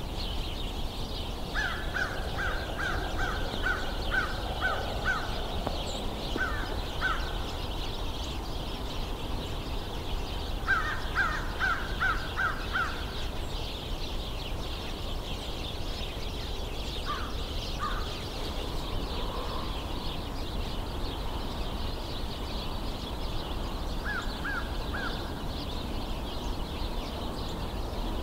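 A large flock of house sparrows chirping all at once in a steady chatter. Over it an American crow caws in quick runs of short calls: a long run near the start, another about ten seconds in, and a few shorter ones later.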